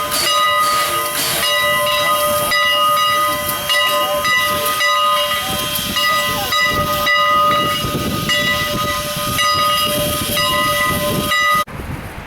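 Steam locomotive blowing off steam: a loud, steady hiss with several held whistling tones, cutting off suddenly near the end.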